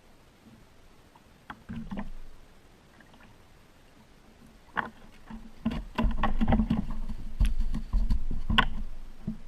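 Knocks and water sounds from a kayak being paddled. A short burst comes about two seconds in, and a louder run of repeated knocks over a low rumble starts about five seconds in and eases off near the end.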